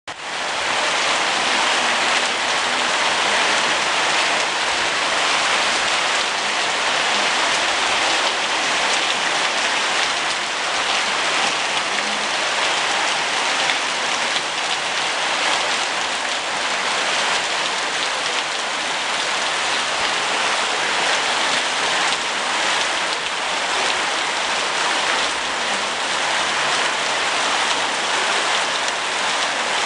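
Steady heavy rain falling on surfaces, a dense even hiss of drops with no letup.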